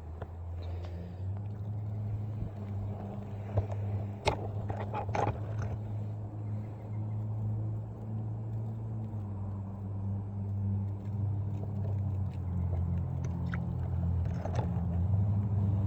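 A low, steady engine-like hum that grows louder toward the end, with a few sharp clicks and knocks about four to five seconds in and again near the end.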